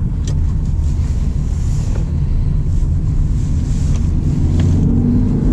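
BMW 316i E36 Compact's four-cylinder engine running steadily under way, heard from inside the cabin with road and wind noise; its pitch rises a little near the end as the car gathers speed.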